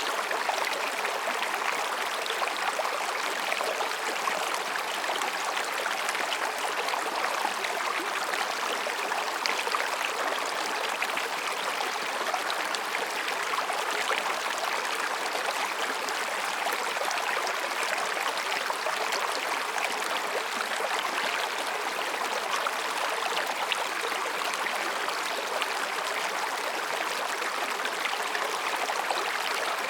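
Mountain stream running between rocks: a steady, even babbling and rushing of water.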